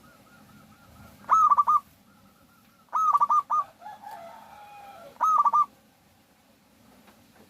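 Zebra dove (perkutut) calling three times, each call a quick run of about four staccato cooing notes lasting under half a second. Fainter calls of other birds sound in between.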